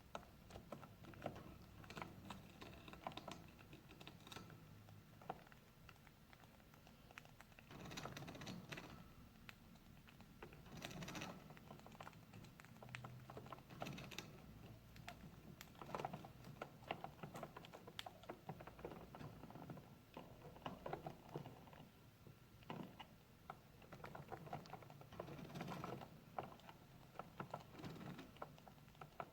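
Budgerigars in a cage making faint, irregular small clicks and taps, with a few brief louder rustling bursts.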